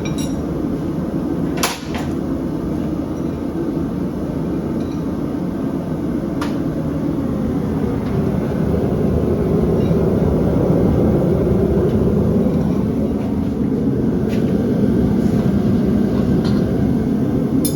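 A forge running with a steady, low rush while the horseshoe steel heats in it, with a few sharp clinks of metal now and then.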